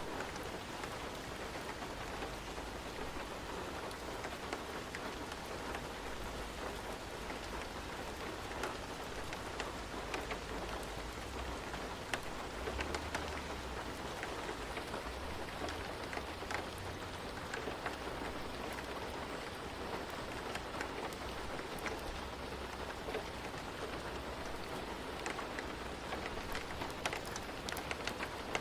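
Steady rain falling, a continuous hiss with many scattered droplet ticks on a surface and a faint low rumble underneath.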